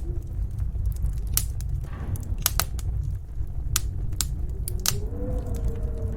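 Log fire crackling with sharp, irregular pops over the low rumble of a snowstorm wind. From about two-thirds of the way in, a wavering wind howl rises.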